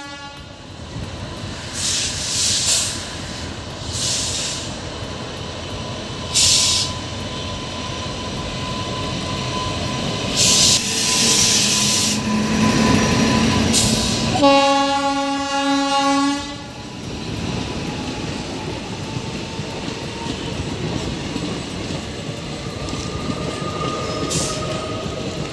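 WAP-7 electric locomotive and its coaches running past close by, wheels rolling and clattering over the rail joints. About 14 seconds in, the locomotive's horn sounds one steady blast of about two seconds.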